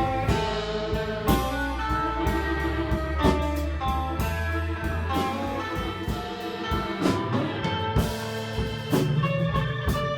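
Live band playing an instrumental passage: guitar lines over bass and drums, with regular drum hits.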